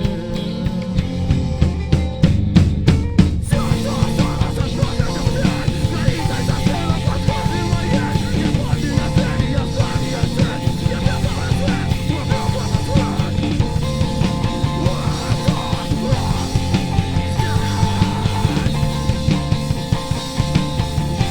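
Live rock band playing an instrumental passage: drum kit driving a steady beat under guitars and bass, with a quick run of drum hits about two to three seconds in.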